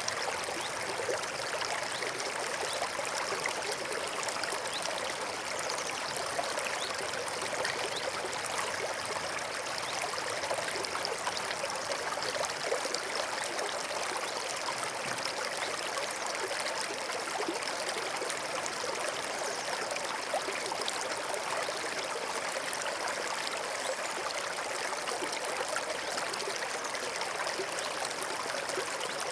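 A small stream flowing steadily over stones, a continuous babbling and trickling of water.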